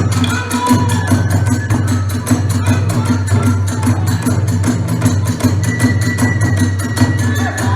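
Kagura festival music: fast, even strokes of drum and clashing small cymbals, with a flute holding a high note in the second half.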